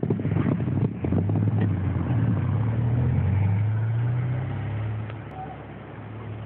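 Land Rover Freelander 1.8 four-cylinder petrol engine pulling away through deep snow, with the tyres crunching in the snow during the first second or so. The engine note holds steady, then fades from about four and a half seconds in as the car drives away.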